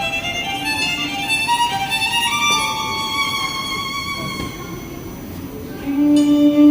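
Instrumental music led by violin, playing a slow melody in held notes, with a lower sustained note coming in near the end.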